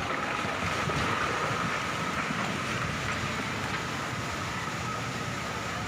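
Steady rushing roar of a flood-driven landslide, with no distinct impacts.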